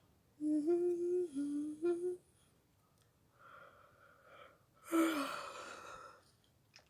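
A person's voice humming a short tune of a few held notes, then a breathy vocal sound with a falling pitch, like a sigh, about five seconds in.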